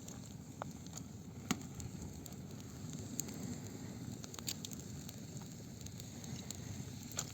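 Campfire burning with a steady low rumble of flames and scattered sharp crackles and pops of burning wood, the loudest about one and a half seconds in and another near the end.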